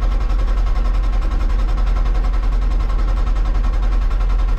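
Hitachi 160 excavator's diesel engine running steadily, a loud, even low drone.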